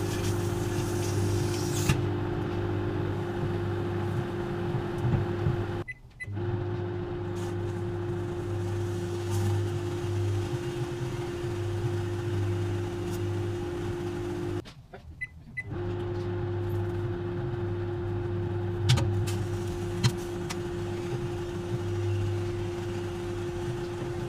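Microwave oven running with a grape inside, a steady hum. The sound cuts out briefly twice, and a few short sharp snaps come near the end.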